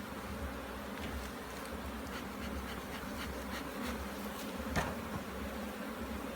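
Honey bees buzzing in a steady hum around an opened hive, with a few light clicks and one sharper click about five seconds in.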